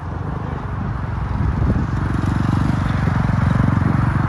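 Dirt bike engine running, getting gradually louder.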